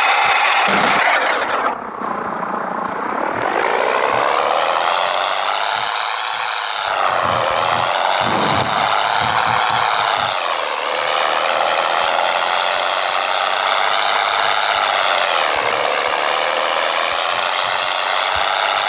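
Scania 113 truck's six-cylinder diesel engine pulling under load, its pitch climbing and then dropping sharply four times as it shifts up through the gears.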